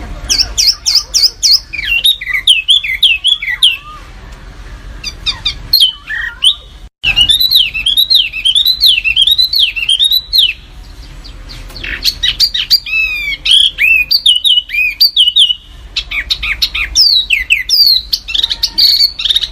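Songbird singing in bursts of sharp, densely repeated chirping notes, each burst lasting a few seconds with short pauses between.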